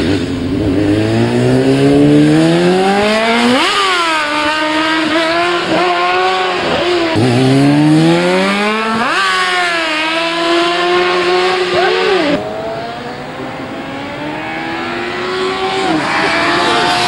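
Racing motorcycle engines at full throttle, the note climbing as each one accelerates and dropping sharply at each upshift. It eases off about twelve seconds in, then builds again as more bikes come.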